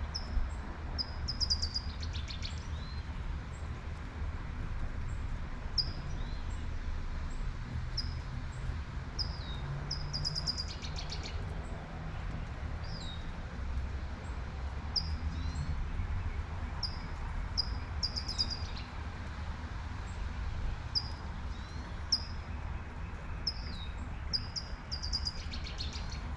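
A songbird singing a repeated phrase of short, high chirps, many with a falling tail, that ends in a buzzy trill about every eight seconds. Underneath is a steady low rumble and light rain hiss.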